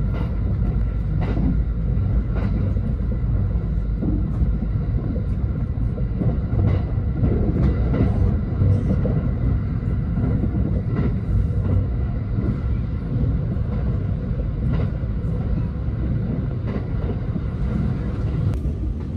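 Electric passenger train running, heard from inside the carriage: a steady low rumble with faint clicks from the wheels on the rails now and then.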